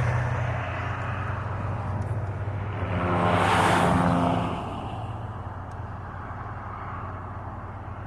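Highway traffic noise, a steady wash of tyres and engines, with one vehicle passing closer about three to four seconds in.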